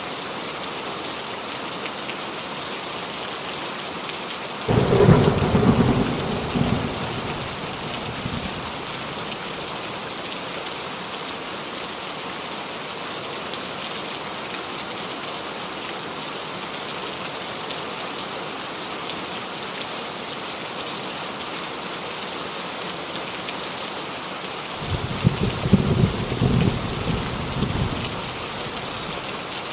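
Steady rain falling on a roof, with thunder rumbling twice: a sudden loud clap about five seconds in that rolls off over a few seconds, and a second rolling rumble near the end.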